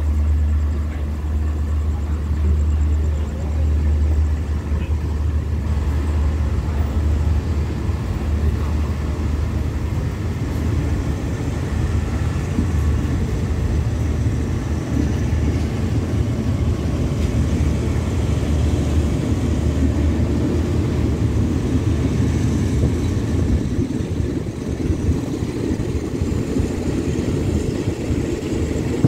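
Passenger train pulling out of a station, heard from aboard: a steady low rumble with the noise of the wheels rolling on the rails, which grows stronger in the last several seconds as the low rumble eases.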